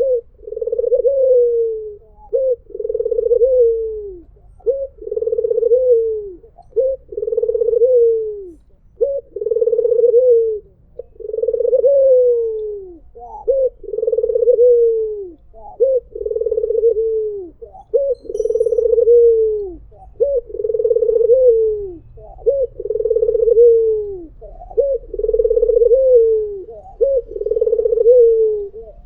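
White Barbary dove (puter putih) cooing over and over: a short rising note and then a long coo that falls away at its end, repeated roughly every second and a half.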